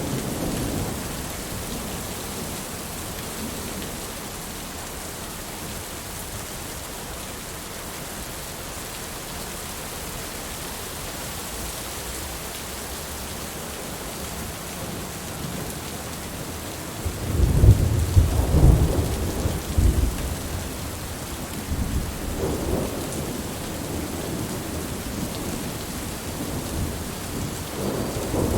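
Steady heavy rain hissing, with rolls of thunder rumbling low at intervals. The loudest roll comes about two-thirds of the way through, and another builds near the end.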